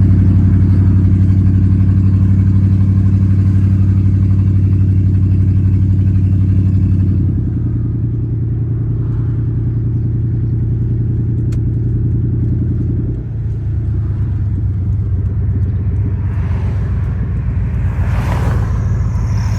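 Car engine and road noise heard from inside a moving car: a steady low drone that shifts in pitch about seven seconds in and again about thirteen seconds in.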